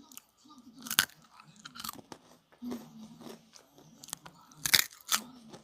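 Biting into and chewing a kkwabaegi, a sugar-coated twisted doughnut, close to the microphone: a few sharp crunches, loudest about a second in and twice near the end, with softer chewing between.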